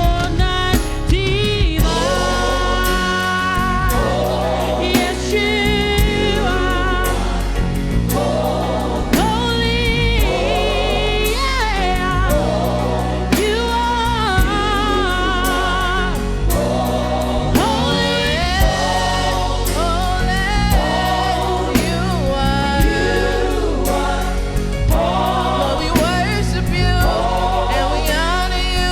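Gospel-style worship music: a choir and vocalists singing with vibrato over a steady band with sustained bass.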